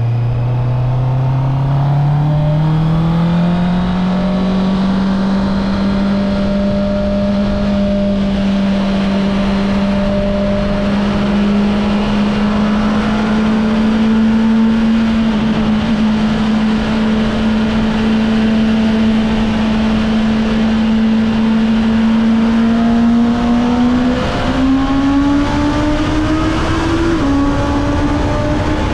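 2025 Honda CB650R's inline-four engine running on its stock exhaust. The engine note rises over the first few seconds, holds nearly steady with a slow climb, then rises again near the end with one short drop in pitch.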